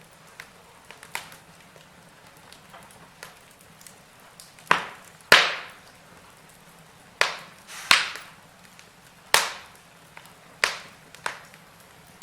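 Wood fire burning in a fireplace, crackling softly with several loud, sharp pops of burning logs that die away quickly, mostly in the second half.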